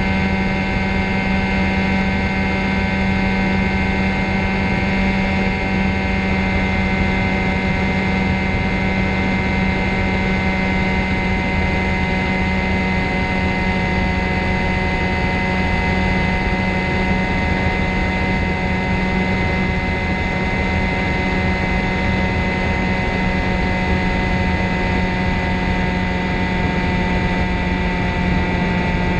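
Ultralight trike's engine and propeller running at a steady speed, a constant droning hum with no change in pitch.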